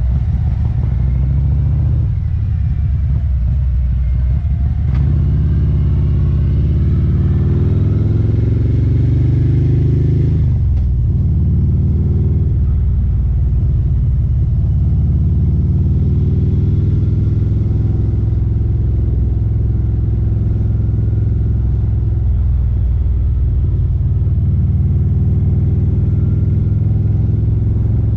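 Harley-Davidson Street Glide CVO V-twin with aftermarket Khrome Werks headers and slip-on mufflers, running on the road. Its pitch rises as it pulls from about five seconds in, drops sharply for a moment about ten seconds in, then climbs and settles at cruising speed.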